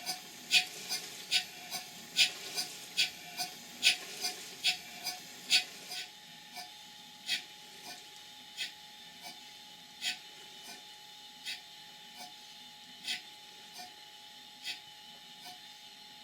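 Large Hayward Tyler duplex steam boiler feed pump working, pumping water with its slide valves set, with a sharp mechanical clack at each stroke, about two or three a second. About six seconds in, the strokes slow to roughly one every 0.7 s and the clacks get quieter.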